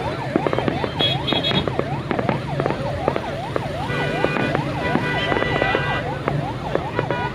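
Several siren-like whoops sweeping quickly up and down in pitch, a few times a second and overlapping one another. Held horn tones join in from about four to six seconds in, over a low steady hum and scattered crackles.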